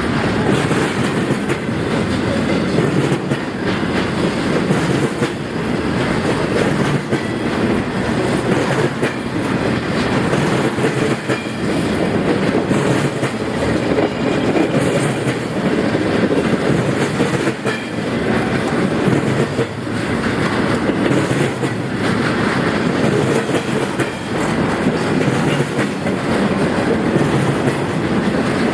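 Freight train cars rolling past at steady speed, the wheels clacking repeatedly over the rail joints along with the steady rumble of the train.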